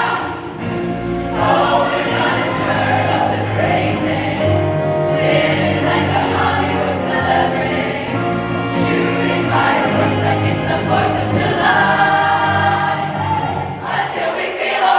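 Women's show choir singing in parts, with instrumental accompaniment underneath.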